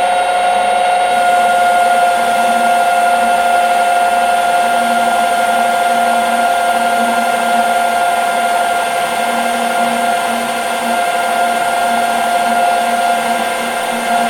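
Metal lathe taking a 2 mm-deep roughing cut on a bar, running steadily with a loud, steady high-pitched ring over the machine noise.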